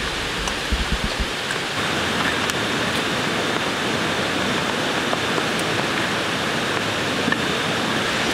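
Steady rain falling, an even dense hiss, with a few faint ticks now and then. A low rumble sits under it for the first second or so.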